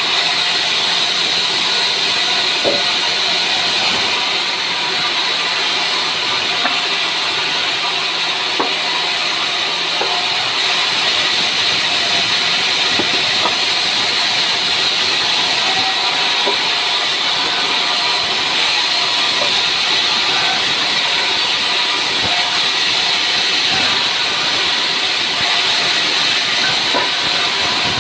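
Sawmill blade cutting through dry pine, a steady hissing noise, with a low hum underneath that stops about ten seconds in.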